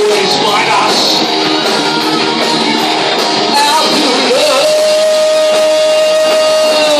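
Live rock covers band playing a song, with a long held note from about two-thirds of the way in.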